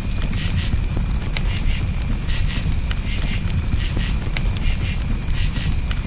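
Campfire burning with a steady low rumble and scattered sharp crackles and pops of burning wood. Crickets chirp high over it, their chirps repeating about once a second.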